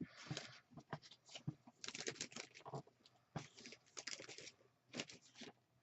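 Hands rummaging through craft supplies on a table: irregular rustling, light taps and clicks as paper, dies and plastic pouches are picked up and moved about.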